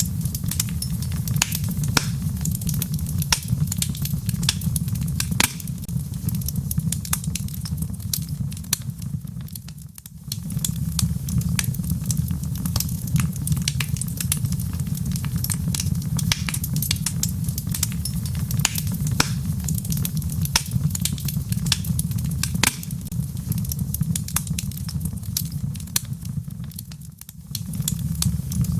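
Wood fire burning in a fireplace, logs crackling with frequent sharp pops over a steady low rumble. The rumble fades for a moment about ten seconds in and again near the end.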